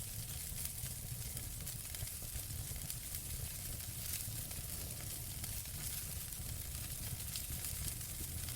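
Wood fire crackling in a fireplace: a steady hiss full of small, quick pops over a low rumble.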